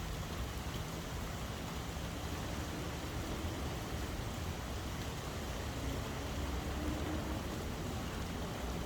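Steady rain falling, an even hiss, with a low rumble and faint hum underneath.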